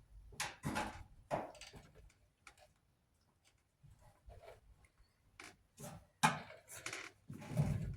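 Scattered light clicks and knocks from tools and parts being handled while a clothes dryer is taken apart, with a louder cluster of knocks near the end.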